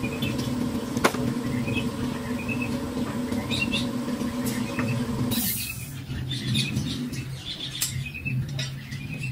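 Small birds chirping in short, high calls, scattered throughout. Under them runs a steady hum that stops about five and a half seconds in.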